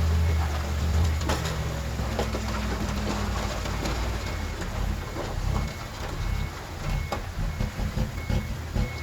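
Heavy earthmoving machine's diesel engine running, strong for the first few seconds and then fading into gusty wind rumble on the microphone. A faint reverse-alarm beep repeats about twice a second through the second half.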